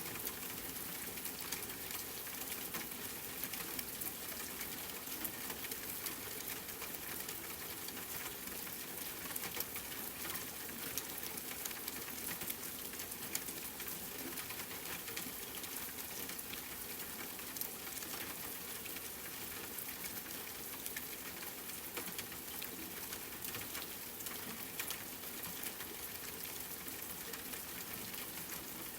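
Steady rain, an even hiss scattered with fine drop ticks.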